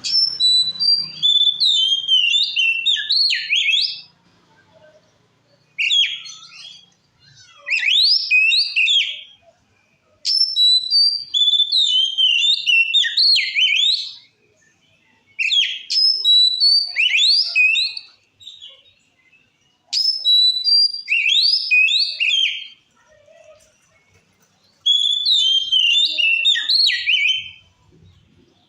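Oriental magpie-robin singing loud phrases of quick, varied whistled notes, six phrases in turn with short pauses of one to two seconds between them.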